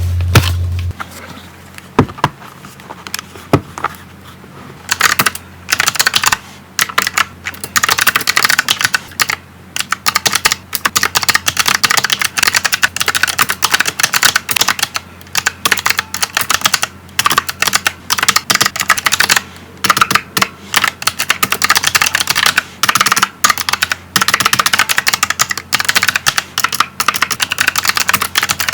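Stylus writing on an iPad Pro screen fitted with a paper-textured matte protector. A couple of single taps come first, then from a few seconds in there is a fast, continuous run of scratchy strokes and taps in irregular spells.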